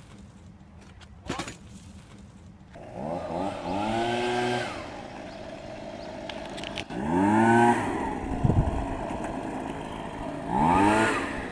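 A small engine revving up and falling back three times, each rev rising in pitch, holding briefly, then dropping.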